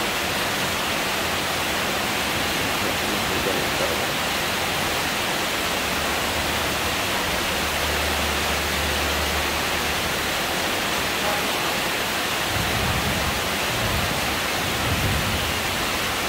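Steady downpour of rain, an even hiss.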